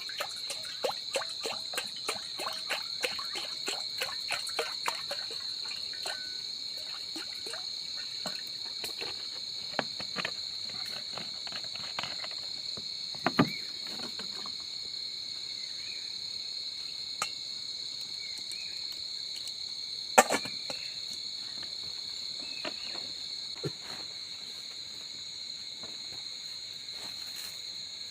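Night insects trilling in a steady, high-pitched chorus. Sharp clicks and knocks sound over it: a quick run of them through the first five seconds, then single louder knocks about 13 and 20 seconds in.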